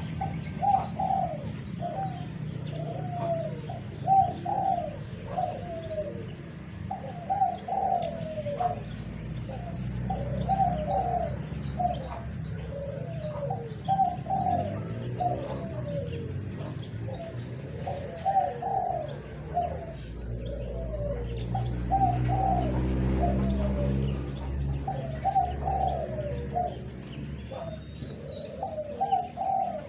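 Spotted doves cooing over and over in short repeated phrases, with a fast run of high thin chirps above them through much of the first half.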